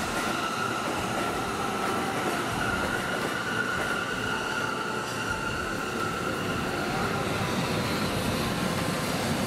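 Electric trains running past on the tracks below: a commuter electric multiple unit, then an EH500 electric locomotive hauling container wagons. Steady wheel-and-rail running noise, with a high whine over it that fades about seven seconds in.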